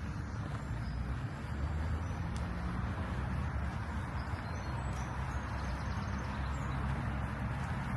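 Steady low rumble of distant road traffic, with a few faint bird chirps about halfway through.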